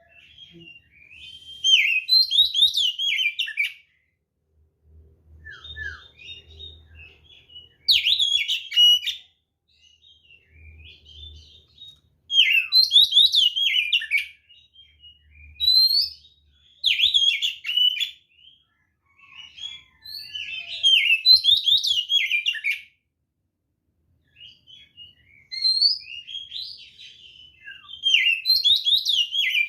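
Oriental magpie-robin (kacer) singing loudly in repeated bursts of quick, varied whistled and warbled notes, each burst one to three seconds long with short pauses between.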